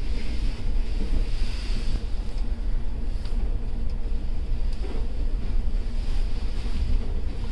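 Steady low rumble and hiss of a passenger train running, heard from inside a sleeper coach, with a few faint knocks.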